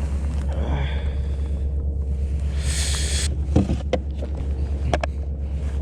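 Steady low rumble of wind buffeting the microphone, with a short hiss about three seconds in and a few light knocks as the landed flounder is handled on the kayak.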